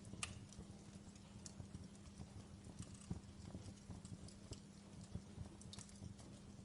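Wood logs burning in a fireplace, crackling quietly with irregular sharp pops and snaps over a low rumble of flame.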